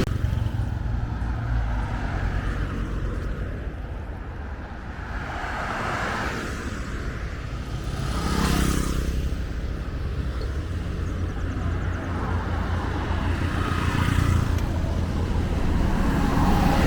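Street traffic: a steady rumble of vehicles, with one passing close about eight and a half seconds in.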